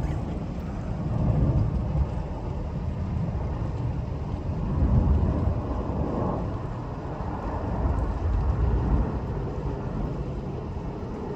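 Deep, steady rumble of low-flying military aircraft overhead, swelling and easing several times.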